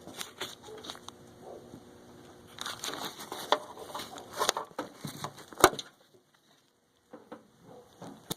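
Hands handling wiring and plastic wire covering: irregular crinkling and rustling with scattered clicks, one sharp click about five and a half seconds in, then a brief hush.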